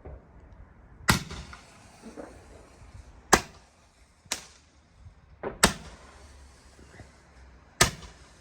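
Fireworks going off: five sharp bangs at uneven gaps of one to two seconds, each with a short echo.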